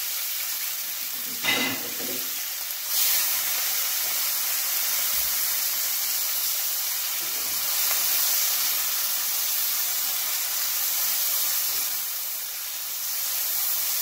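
Chopped onion, tomato, sweet pepper and scallion sizzling in hot oil in a frying pan: a steady hiss that turns louder about three seconds in. There is a short sharp sound about a second and a half in.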